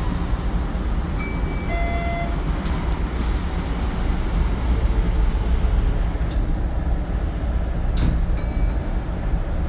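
Running noise of a Hanshin Railway electric train, heard from inside the car: a steady low rumble of wheels and motors on the track. A few brief high squeals and short clicks cut through it about a second in and again near the end.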